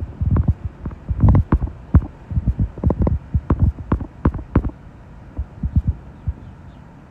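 Strong gusty wind buffeting the microphone: irregular low thumps and rumbles, dense for the first four to five seconds, then fewer and weaker.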